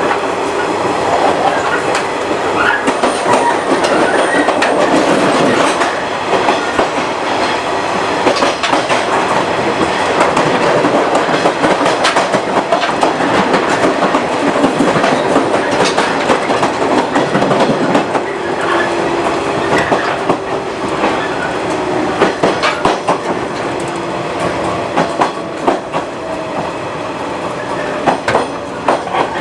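115 series electric multiple unit running along the line: a steady wheel-on-rail rumble with repeated rail-joint clicks. A faint steady hum joins in past the middle.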